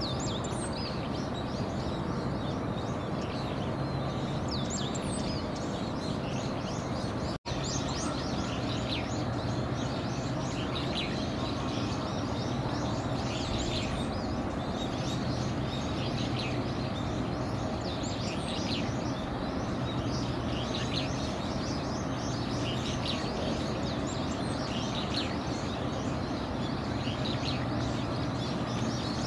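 Small birds chirping again and again over a steady low hum, with a momentary dropout in the sound about seven seconds in.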